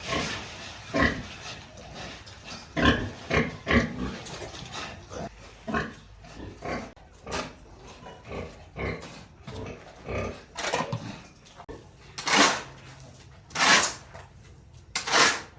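Pigs grunting in short, irregular bursts, with a few louder, harsher bursts near the end.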